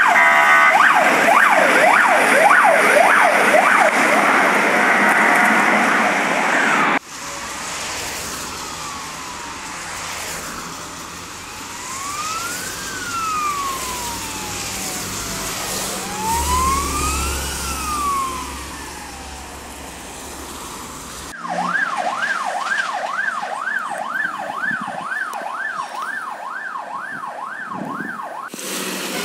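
Fire truck sirens in three clips. First a MAZ-5309's siren is loud and fast, sweeping up and down. After a cut about seven seconds in, a MAZ-530927 passes with a slow rising and falling wail over a low engine rumble. Near the end a Zil-131 ladder truck's siren yelps about twice a second.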